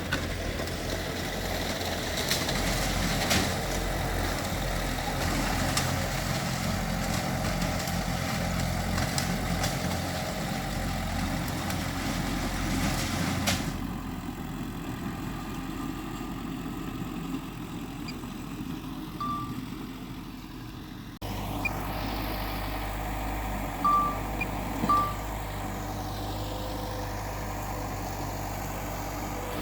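Diesel engines of earthmoving machines, a bulldozer and dump trucks, running steadily with metallic clatter, the sound changing abruptly twice. A few short high beeps sound in the second half, twice in quick succession near the end.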